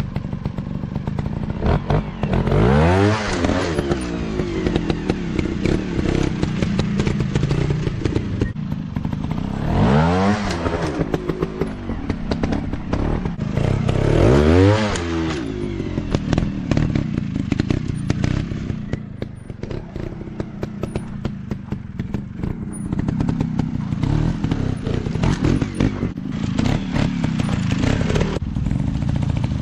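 Dirt bike engines running, with the pitch swinging up and back down four times as the throttle opens and closes, the last near the end. Clattering and knocking run throughout.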